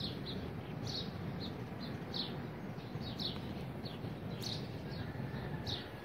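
Small birds chirping: short high chirps, about two a second and irregularly spaced, over a steady low background rumble.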